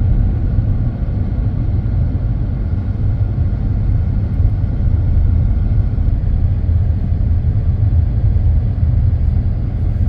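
Steady road noise of a vehicle cruising along a road: a continuous low rumble of tyres and engine with no change in pace.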